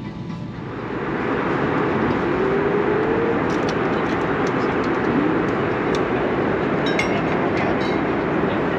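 Airbus A321neo jet engines heard inside the cabin, throttling up: about a second in a steady rushing roar swells and holds loud. A few light clicks and rattles sound over it in the second half.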